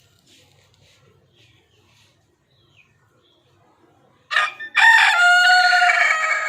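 Desi (country) rooster crowing once: a short opening note about four seconds in, then a long held note.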